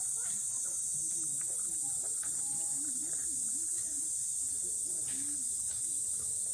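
Steady high-pitched chorus of insects trilling, with faint voices of people talking far off underneath.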